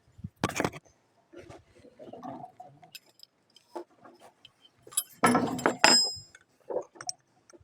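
Metal hand tools clinking and rattling as they are handled, with a louder clatter and a brief metallic ring about five seconds in.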